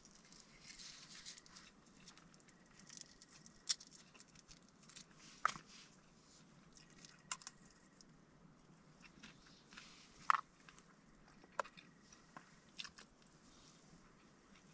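Quiet sounds of a person chewing and biting food, with a handful of sharp clicks and short rustles scattered through as the food is handled.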